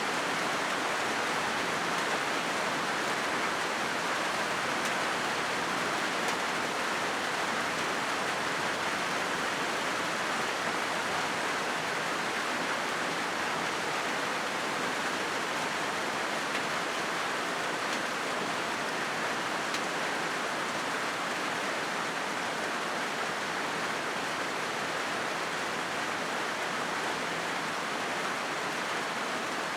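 Steady rain falling on a corrugated zinc roof: an even, unbroken hiss that holds the same level throughout.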